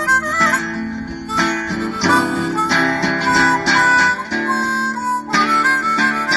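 Live acoustic blues with a harmonica playing a melody of held, bending notes over a strummed acoustic guitar, with no singing.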